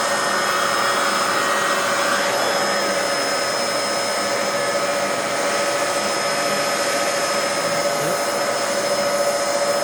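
Vacuum cleaner running with an air-driven hand turbo tool on the hose, its turbine-driven brush roll spinning under suction with a steady whine. The tool keeps running under load.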